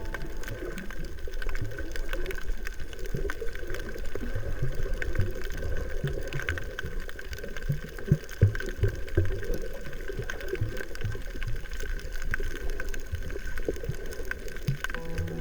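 Underwater sound recorded on a reef dive: water gurgling and bubbling with many short low knocks, scattered clicks and a faint steady hum throughout.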